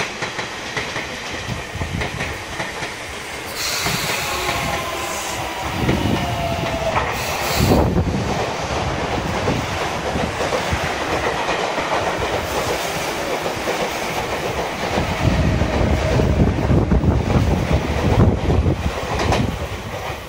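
Sotetsu electric commuter train running along the platform, its wheels clattering over the rail joints, with a whine falling in pitch a few seconds in. The clatter grows heavier near the end.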